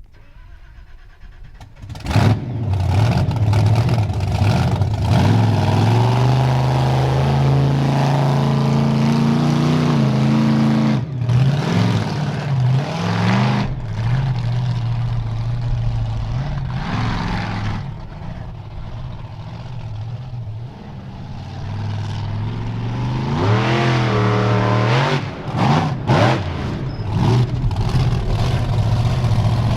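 Bigfoot 18 monster truck's engine running loud and revving, starting suddenly about two seconds in. Its pitch climbs and falls repeatedly as the throttle is worked, with a quicker run of revs near the end.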